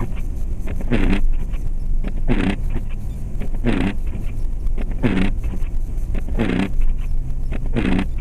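Windshield wipers sweeping at a steady pace, a swish about every second and a third, heard inside the cabin of a 2004 Jeep Grand Cherokee over the low, steady drone of its engine and tyres on the road.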